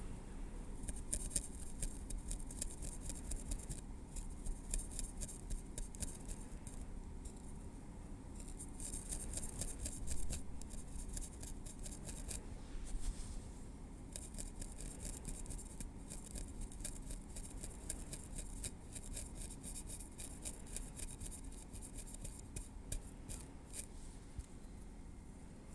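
Tweezers working through hair against the scalp: rapid fine, crisp ticks and scratches in spells, with brief lulls between them.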